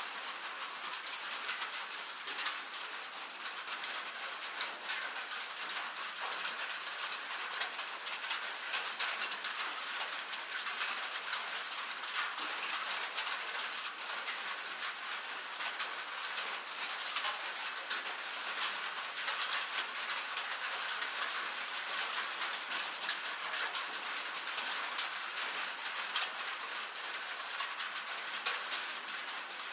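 Steady rain on a metal roof: a dense patter of many small, sharp drop ticks, with almost no low end.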